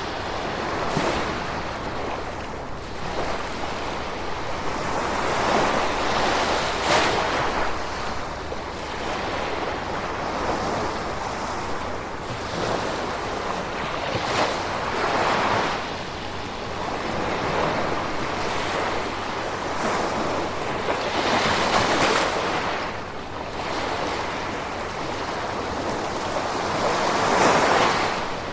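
Gentle ocean waves washing in and drawing back, a swell of surf every few seconds over a steady hiss of rain.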